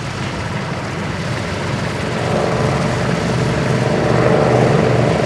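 Vintage piston-engined propeller aircraft flying past, its engines droning and growing louder from about two seconds in as it approaches.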